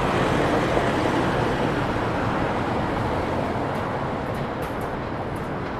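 Steady city street traffic noise, a vehicle's rumble that slowly fades.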